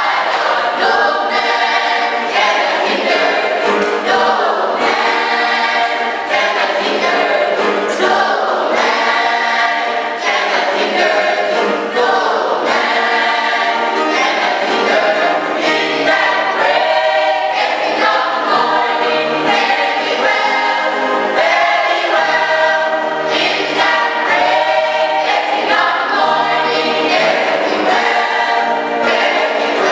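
Choir singing gospel music, steady and loud throughout.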